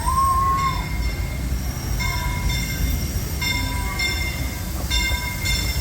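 Disneyland Railroad train rolling along the track with a steady low rumble. The wheels squeal high-pitched in several short stretches that come and go.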